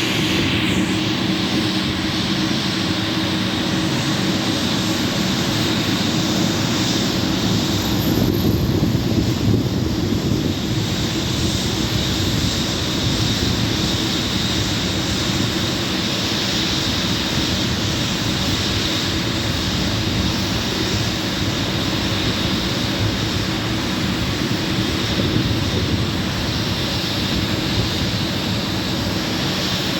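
Jet aircraft engines running steadily, a constant high whine over a rumble that holds level throughout.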